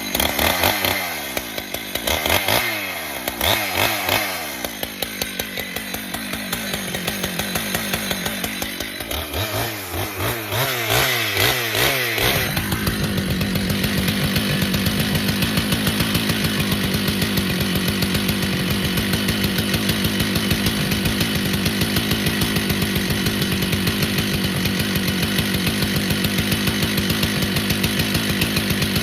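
Husqvarna two-stroke chainsaw starting up and revving up and down for about twelve seconds, then running steadily at high revs, bucking a large pecan log into firewood rounds.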